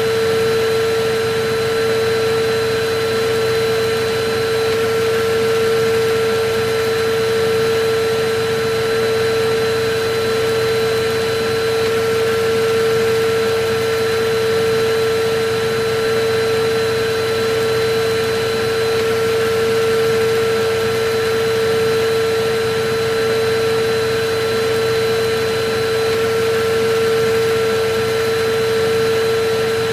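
Electric vacuum cleaner running continuously: an even rush of air with a steady motor whine, used as white noise.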